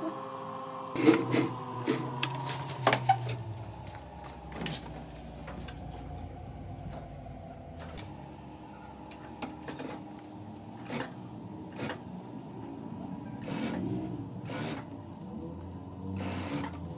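Sewing machine stitching in short runs over a steady motor hum, with irregular sharp clicks from the machine and the fabric being handled.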